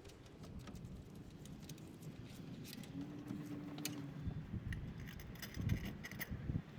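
Light metallic clinks and rattles of hand tools working on bolts and metal parts, scattered and growing busier in the second half, with a brief low hum about halfway through.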